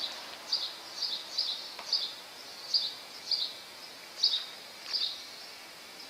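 A bird chirping repeatedly: short high chirps roughly twice a second, irregularly spaced, stopping about five seconds in, over faint steady street noise.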